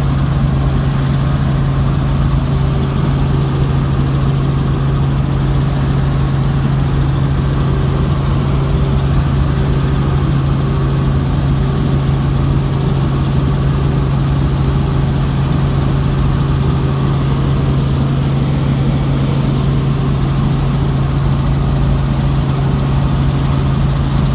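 Helicopter running steadily, heard from inside the cabin: a loud, unbroken engine and rotor noise with one strong low hum that holds the same pitch throughout.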